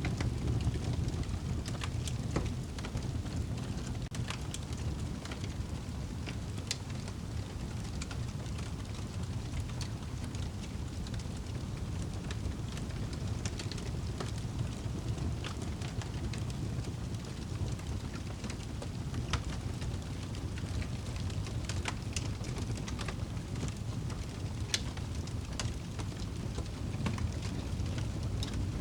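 Wood fire burning in a fireplace: a steady low rumble of flames with scattered sharp crackles and pops at irregular times.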